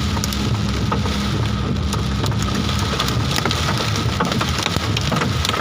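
A hailstorm with heavy rain: hailstones pelting hard surfaces in a dense patter of sharp clicks over a steady rush of rain.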